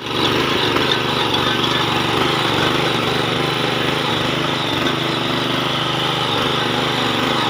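Small power tiller's engine running steadily as it tills the soil, with a fast, even firing pulse.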